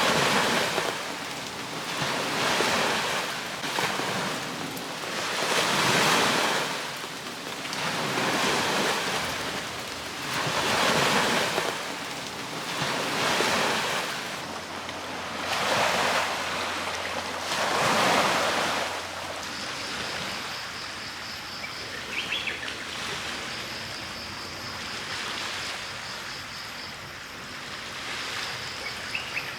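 Small sea waves washing onto the shore in regular swells about every two to two and a half seconds, easing off about two-thirds of the way through. In the calmer last third, a high pulsing trill and a few short chirps come in.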